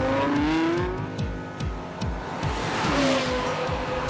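Lexus LFA's V10 engine revving high, its pitch climbing over the first second and again about three seconds in, with a rush of noise building near the end.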